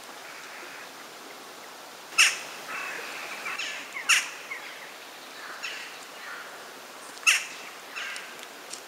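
Bird calls: three loud, sharp calls about two, four and seven seconds in, with softer chirping calls between them.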